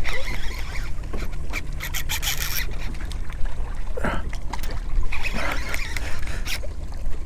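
Rubbing, scraping and clicking from a fishing reel, rod and kayak hull while a heavy black drum is played and reeled in, with some water trickling. The scrapes are densest about two seconds in.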